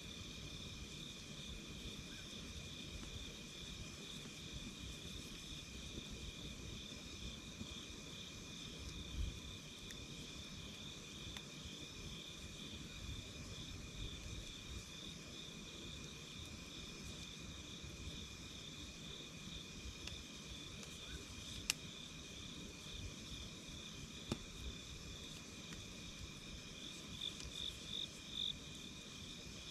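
A steady chorus of night insects chirping, with a few sharp crackles from a wood campfire, the loudest a little past two-thirds of the way through.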